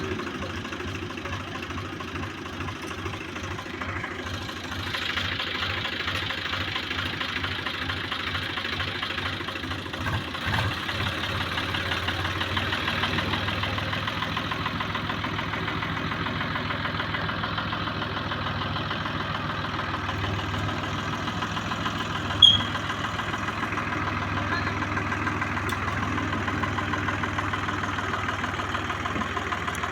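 Swaraj 735 tractor's diesel engine running steadily with a fast low throb. A single short sharp click or clank comes about two-thirds of the way through.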